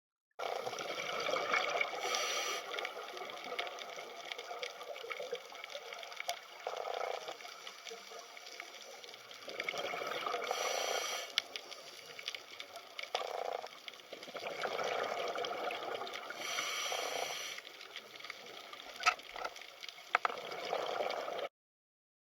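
Water sound effect: flowing, gurgling water that swells and fades several times, then cuts off suddenly near the end.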